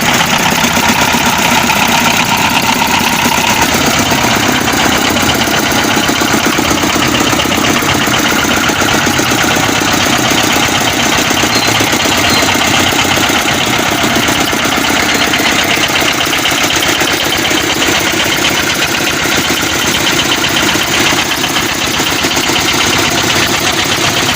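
Old Petter diesel engine running steadily, with a fast, even diesel knock.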